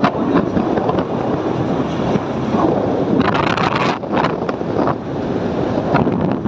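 Wind buffeting the microphone on a moving motorcycle, with vehicle and road noise underneath.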